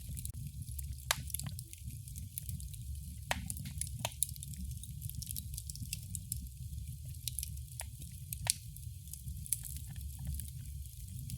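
Wood fire crackling: a steady low rumble of burning under frequent sharp pops and snaps, with a few louder pops about a second in, around three and four seconds in, and near eight and a half seconds.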